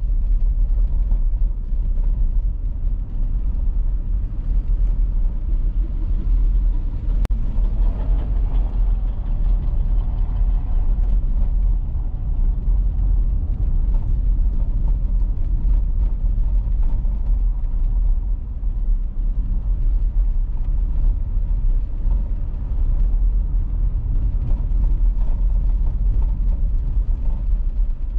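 Car driving on an icy road: a steady low rumble of engine and tyre noise, with a single faint click about seven seconds in.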